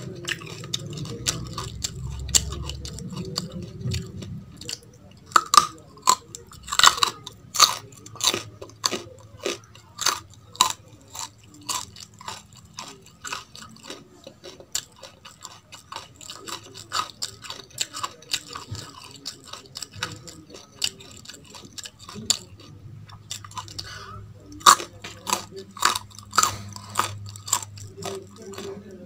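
Crunchy chewing of raw baby carrots and raw rice: a long run of sharp, irregular crunches, a brief pause about twenty-two seconds in, then another run of crunches.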